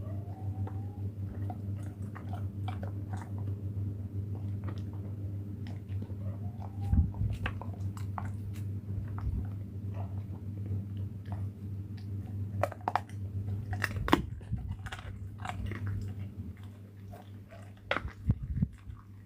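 An animal chewing and crunching food, with irregular bites and a few louder crunches, over a steady low hum.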